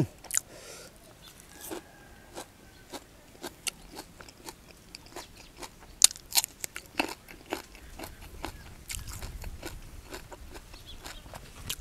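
Close-miked chewing and crunching of a mouthful of fish larb wrapped in fresh leaves, a run of crisp, irregular clicks.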